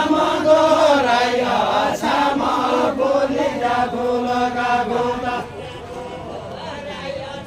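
A group of voices chanting a Deuda folk song together in long, drawn-out held notes. The singing falls away about five and a half seconds in, leaving quieter voices.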